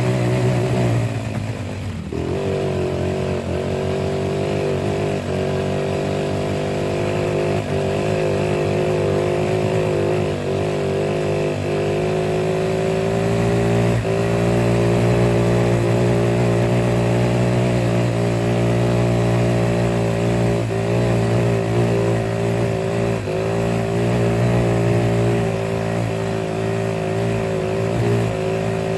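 An engine running steadily. Its pitch drops briefly about two seconds in, then picks back up and holds even.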